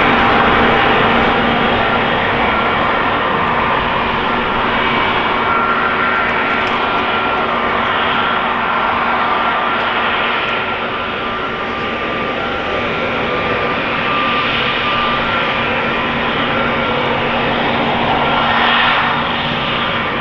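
Jet airliner engines running nearby: a loud steady rush with a constant whine, easing slightly midway and swelling briefly near the end.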